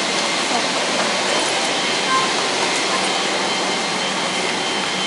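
Boeing 777-300ER cabin air system running on the ground: a steady, noisy rushing hiss with a faint high whine in it.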